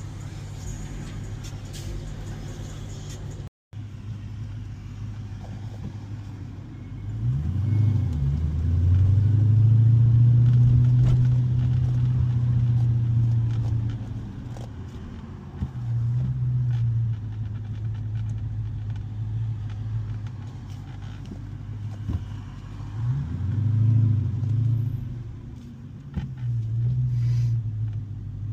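Supercharged 6.2-litre HEMI V8 of a manual 2015 Dodge Challenger Hellcat running under way. It accelerates hard from about seven seconds in for several seconds, then eases off, with more short bursts of throttle near the end.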